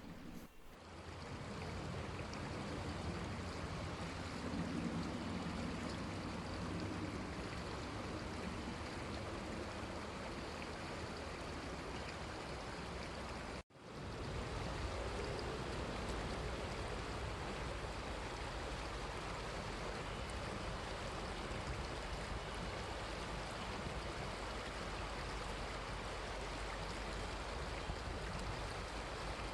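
Running river water: a steady rushing of a stream. It drops out for an instant about 14 seconds in, then carries on.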